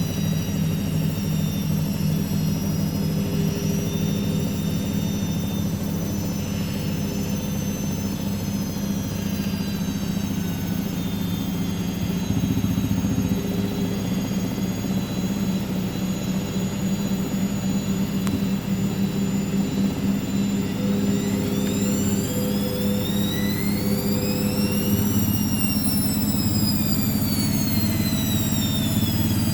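Hoover washing machine running steadily with a drain-pump hum, then near the end its drum motor whines up and back down in a brief intermittent spin during the rinse.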